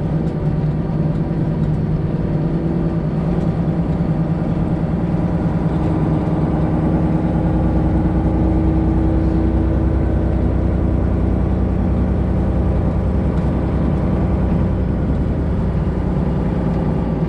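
Freightliner Classic XL's 12.7-litre Detroit Diesel engine running steadily while the truck is driven, heard from the cab with road noise; a constant low drone that gets a little louder from about halfway through.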